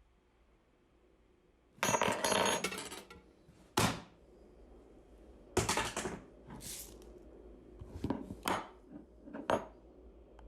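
A few short clattering rattles and sharp clinks, like small hard objects dropped or knocked together: one rattle about two seconds in, a second after about five and a half seconds, and single clicks in between and near the end.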